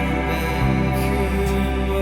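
Band with guitars playing live in an alternative rock / post-rock style: a slow passage of sustained, ringing chords, with a couple of light strikes.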